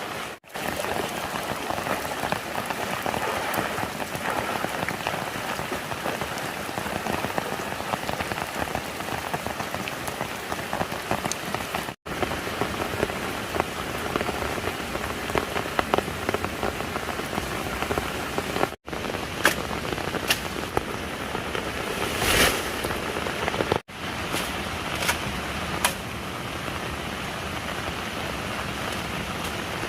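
Steady rain falling and pattering on surfaces. It runs in several stretches split by brief silent cuts, with a few sharper drips and taps in the second half.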